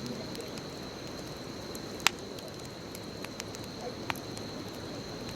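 Bonfire burning with a steady low hiss and scattered small crackles. A loud sharp pop comes about two seconds in, and a smaller one about four seconds in.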